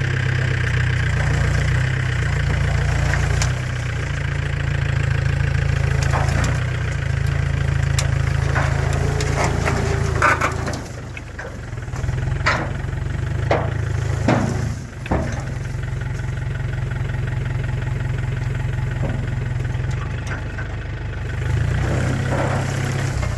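New Holland TCE50 compact tractor's diesel engine running steadily at low speed. A few sharp knocks and clanks come about halfway through.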